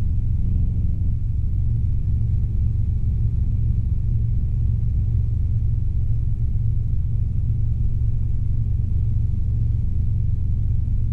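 Steady low rumble of a Robinson R22 helicopter in flight, heard from inside the cabin: its four-cylinder Lycoming piston engine and rotor system under climb power.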